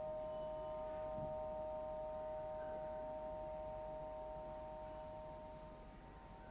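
Singing bowl ringing in several steady overlapping tones that slowly fade, with the sound dropping lowest near the end.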